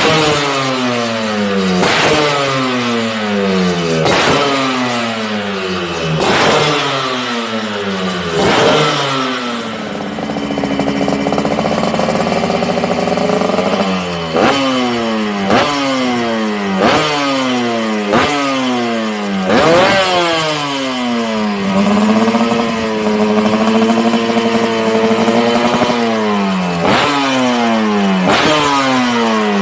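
Yamaha RX-King two-stroke single-cylinder engine revved through a B-PAZZ aftermarket exhaust: repeated quick throttle blips, each snapping up and falling back in pitch about every two seconds. Twice, at about ten seconds and about twenty-one seconds in, the revs are held steady for a few seconds before the blipping resumes.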